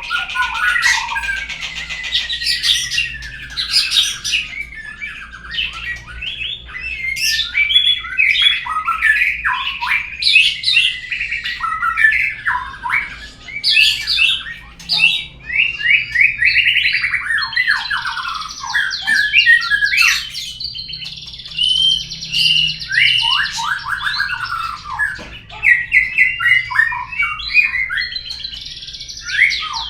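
White-rumped shama (murai batu) song: a continuous, varied run of loud whistles, rapid trills and chattering phrases. This is the kind of recorded lure song played to prompt a caged murai to sing.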